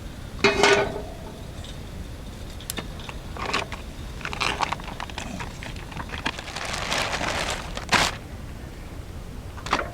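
Intermittent crinkling and rustling of a food wrapper being handled and opened, with a few sharp clicks and a longer rustle about two-thirds of the way through.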